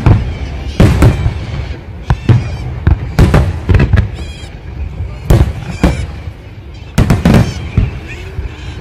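Aerial fireworks shells bursting: a string of sharp bangs and booms, some in quick pairs, over a steady low rumble.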